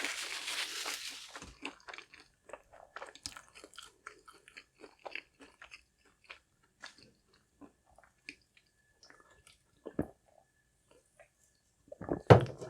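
Close-mic chewing and crunching of a crispy fried spicy flounder fish sandwich: many small crisp crackles, with a louder burst near the end.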